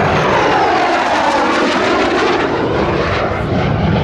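F-35B Lightning's single Pratt & Whitney F135 turbofan running loudly in flight, a steady jet roar with a whine that falls in pitch over the first couple of seconds and then climbs again.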